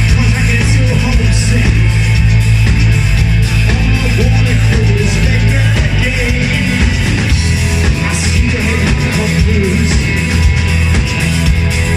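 Live rock band playing a song, loud and continuous, with heavy sustained bass and guitars, as heard from the audience.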